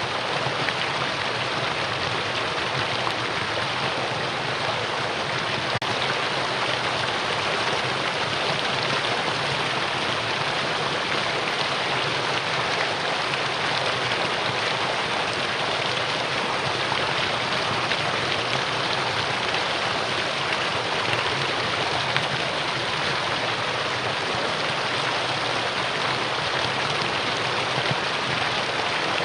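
Mountain stream rushing over rocks: a steady, even rush of water with no change in level.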